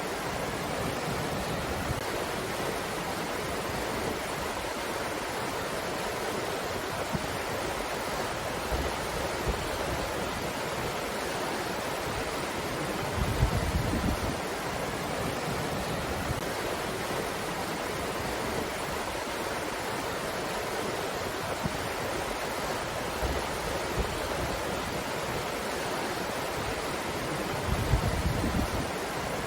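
Steady rushing noise of a breeze, with two brief low rumbles, about 13 seconds in and near the end.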